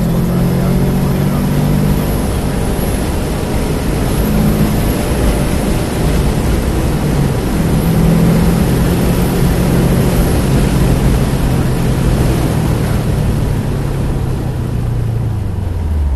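Car engine pulling hard under throttle, heard from inside the cabin with heavy wind and road noise at around 80 mph. Near the end the engine note falls as the car brakes for a corner.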